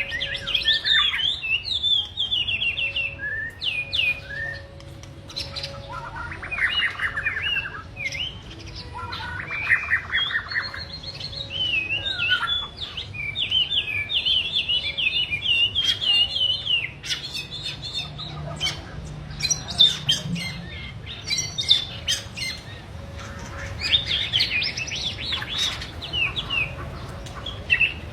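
A songbird singing a varied song of quick whistled notes and trills, phrase after phrase with short pauses between.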